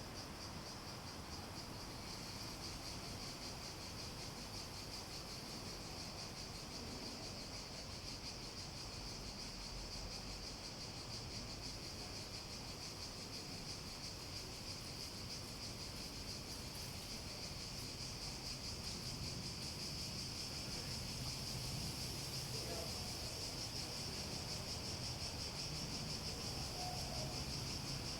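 Cicadas droning in a steady, high buzzing chorus that swells a little louder near the end.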